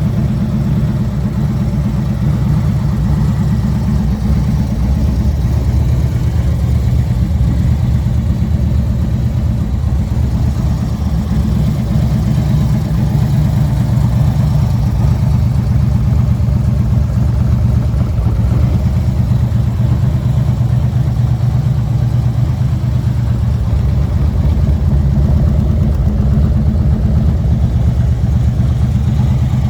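Harley-Davidson Switchback's Twin Cam 103 V-twin engine idling steadily, with an even low pulsing exhaust note.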